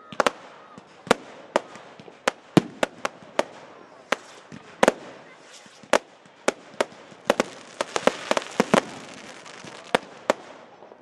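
Category 2 and 3 display fireworks firing: a rapid, irregular string of sharp bangs from rising comets and bursting aerial shots over a steady hiss. The bangs come thickest about seven to nine seconds in.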